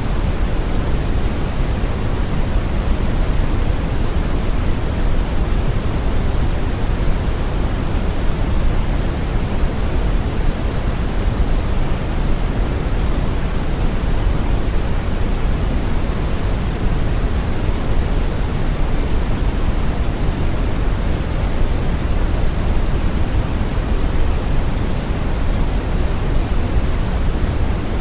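Steady brown noise: a deep, even rushing hiss, strongest in the low bass and thinning toward the top, with no changes or events.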